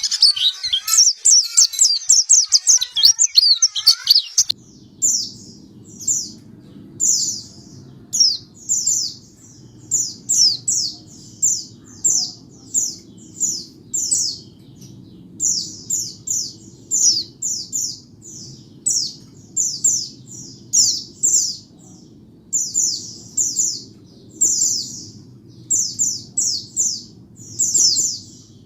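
White-eye (pleci) calling: a dense, fast run of high chirps, then after an abrupt change about four and a half seconds in, short high descending chirps repeated about twice a second over a steady low hum.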